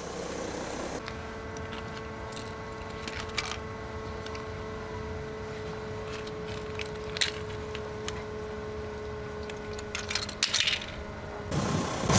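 Car engine idling with a low rumble and a steady whine that stops shortly before the end, with a few small clicks and crackles.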